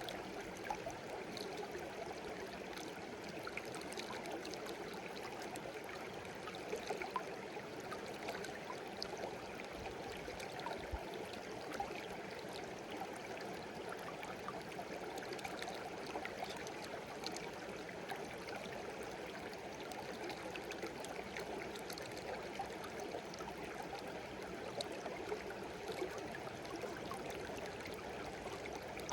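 A shallow stream babbling and gurgling steadily, with small splashes and droplet plinks sprinkled through it.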